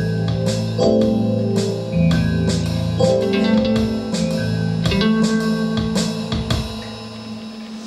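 Live jazz-blues band with guitar and drum kit playing the closing bars of a song. Near the end the drums stop and a final chord is left ringing.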